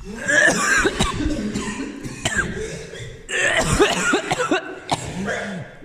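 A man coughing and clearing his throat in two spells of a couple of seconds each, a reaction to a strong foul smell.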